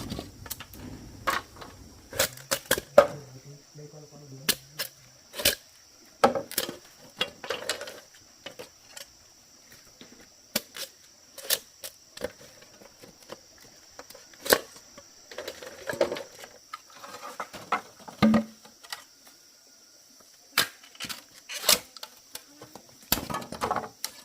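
Irregular sharp knocks and clacks of bamboo being handled and worked by hand, some in quick clusters, over a steady high drone of insects.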